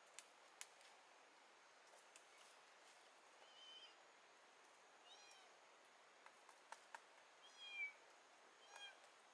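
About four short, high-pitched animal calls a second or two apart, each rising and falling, over faint background hiss, with a couple of soft clicks near the start.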